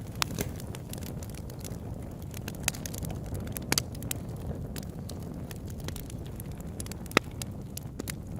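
Campfire crackling: a steady low rumble of burning with scattered sharp pops, the loudest about seven seconds in.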